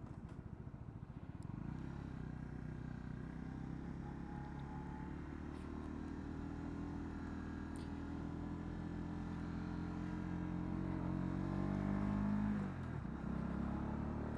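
Honda CB125R's single-cylinder engine running under way, its pitch climbing slowly as the bike gains speed, then dropping sharply about twelve and a half seconds in before steadying again.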